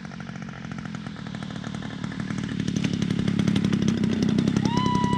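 EME60 60cc two-stroke gas engine of a giant-scale RC Zero at low power, turning a three-blade propeller and growing louder as the plane comes in to land. A steady high tone starts near the end.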